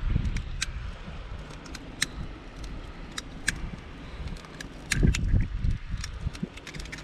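Scattered sharp clicks and taps of small hard objects, over a low rumble of wind on the microphone that swells about five seconds in.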